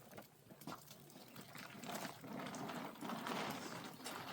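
Liquid pouring in a soft, steady stream, starting about a second and a half in, with a few faint clicks before it.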